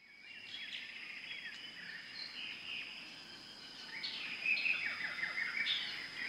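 Several small birds chirping and twittering: many quick, high, overlapping calls that grow busier from about four seconds in, over a steady thin high tone.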